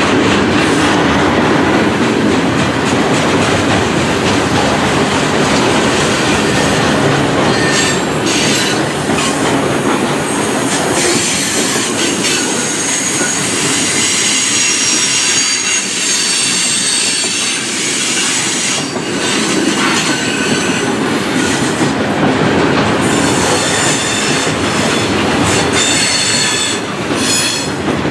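Freight cars of a long mixed freight train rolling past at trackside: a steady rumble of steel wheels on rail with clicking over the rail joints. High-pitched wheel squeal comes and goes from about eight seconds in.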